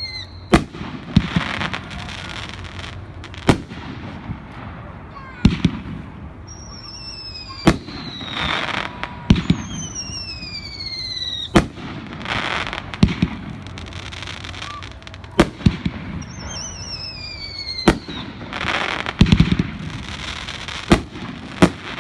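A consumer fireworks cake firing shot after shot: a sharp report every couple of seconds, with whistles that fall in pitch and crackling after the breaks.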